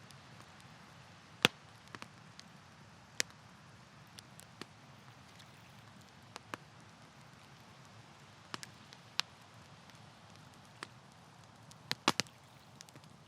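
Wood campfire crackling: irregular sharp pops and snaps over a low steady hiss, with a loud pop about a second and a half in and a quick cluster of pops near the end.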